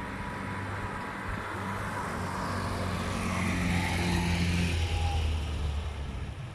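A four-wheel tractor's diesel engine running, growing louder about three to five seconds in and then fading.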